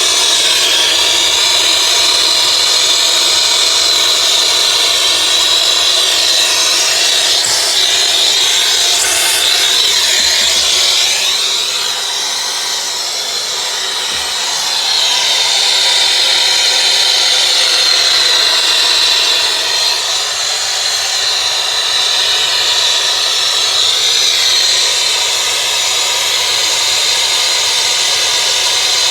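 Loud, steady machine noise with a high whine running through it, dipping slightly for a couple of seconds about halfway through.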